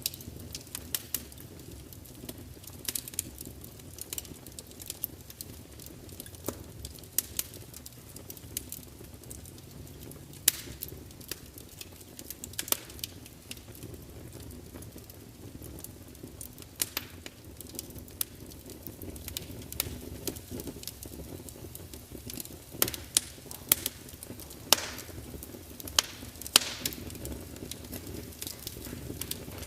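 Wood fire burning in a large fireplace: a steady low rumble of flames under irregular crackles and pops, with sharper snaps from the logs every few seconds.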